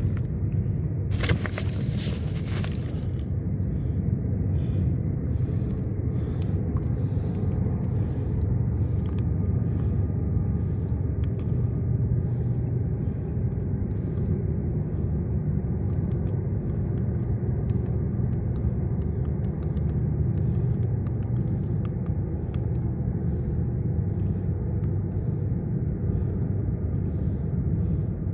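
A steady low rumble with scattered small clicks, and a louder hiss from about a second in that lasts around two seconds.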